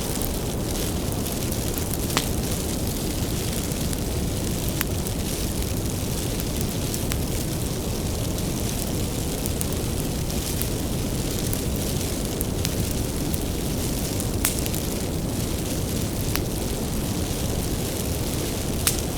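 Wood bonfire burning, a steady low rush of flame with irregular sharp crackles and pops from the firewood every second or two.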